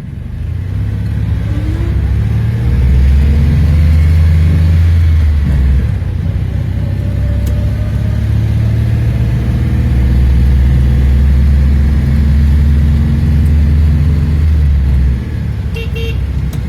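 A car engine running with a deep, loud rumble, its pitch rising and falling as it is revved a few times, then settling lower near the end.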